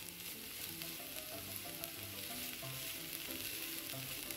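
Grated coconut, snake gourd and carrot sizzling steadily as they are sautéed dry in a non-stick pan, with a spatula stirring through the mixture.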